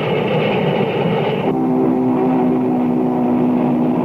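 Union Pacific Big Boy steam locomotive working under a rushing noise from its stacks. About a second and a half in, its chime whistle comes in: a steady chord of several tones held through to the end.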